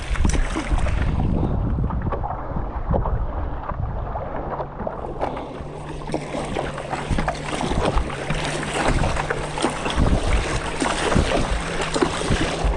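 Wind buffeting the microphone over water sloshing and splashing around a stand-up paddleboard, with many small crackling splashes.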